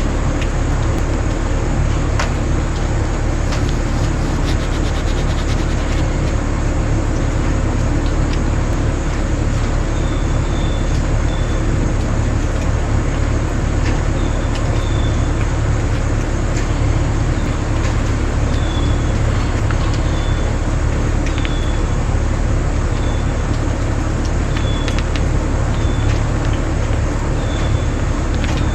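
An engine running steadily, a constant low drone. From about ten seconds in, short high chirps come every second or so.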